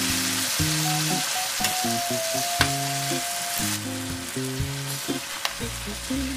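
Chicken feet sizzling in a wok as a metal spatula tosses them through soy and oyster sauce, with a couple of sharp clicks of the spatula against the pan. The sizzle thins out about four seconds in. A light, bouncy music tune plays underneath.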